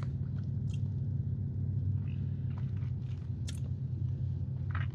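Steady low background hum, with a few faint clicks about a second in, about three and a half seconds in and near the end.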